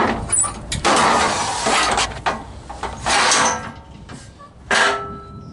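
Tow dolly straps and metal hardware being handled, with rattling, scraping and clanks. There is one sharp ringing metal clank near the end.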